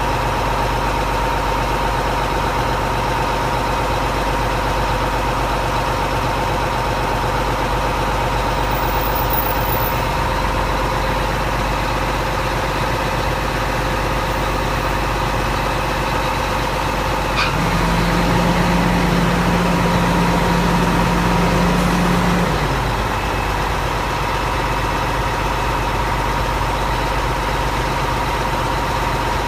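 Crane truck's engine idling steadily with a constant hum. About two-thirds of the way in a click is followed by a louder low hum for about five seconds, which then drops away and the idle settles back.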